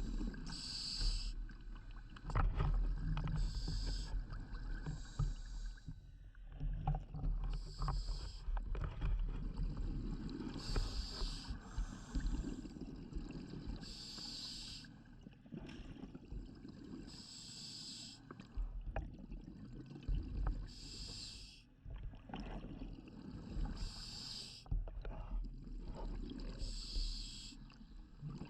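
Scuba diver breathing through a regulator underwater: a short hissing burst of breath and bubbles about every three seconds, over a steady low rumble.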